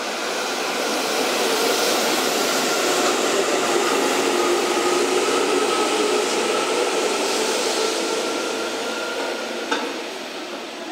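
Tobu 8000 series electric train passing through without stopping. Its running noise swells as it draws level and fades as it moves away, with a faint steady whine under the noise and one sharp click near the end.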